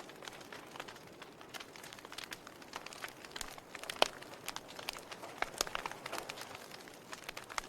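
Log fire crackling, with irregular sharp pops and snaps from the burning wood, the loudest pop about four seconds in.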